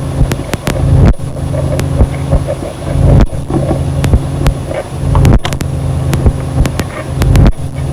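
Ambient noise music: a loud, dense low drone that breaks off for a moment about every two seconds, with sharp clicks scattered through it.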